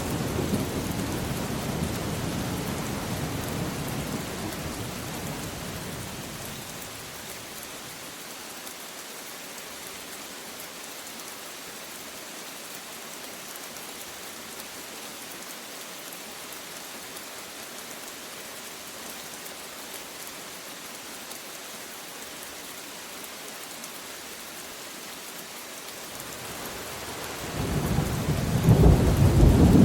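Steady rain with thunder: a roll of thunder rumbles at the start and dies away over the first several seconds, leaving only the rain, and a new, louder thunder roll swells up near the end.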